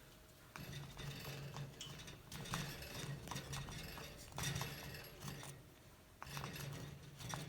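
Cape parrot biting and chewing at a wooden foraging box: irregular clicks, cracks and scraping of wood under the beak, in short bursts with brief pauses.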